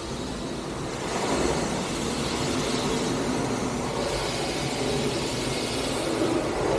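Automatic car wash running: a steady loud rush of spraying water and machinery noise, which gets louder about a second in.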